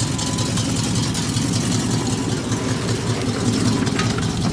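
1974 Chevy Nova's carbureted 350 small-block V8 idling steadily through its dual exhaust.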